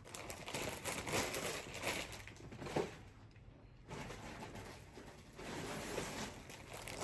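Plastic packaging rustling and crinkling in uneven bursts as a shipping bag is handled and opened.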